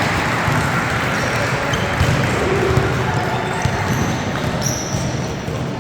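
Youth basketball game in progress: a basketball bouncing on the court amid a steady murmur of spectators, with a few short high sneaker squeaks about four to five seconds in.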